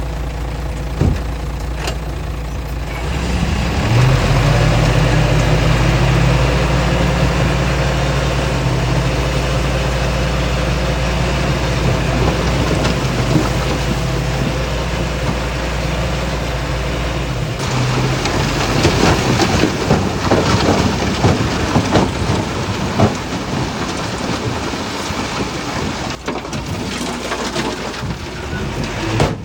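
Heavy diesel engine of earthmoving machinery running under load. It picks up about three seconds in and holds a steady drone. Past the middle it gives way to a rough, clattering rumble with many knocks.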